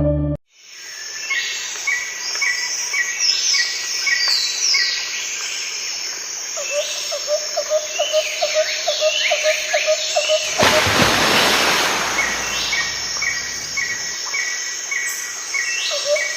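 A chorus of several birds calling at once: rows of short repeated chirps, high falling whistles and, from about six seconds in, a fast run of lower notes. A loud rush of noise sweeps in briefly about ten seconds in.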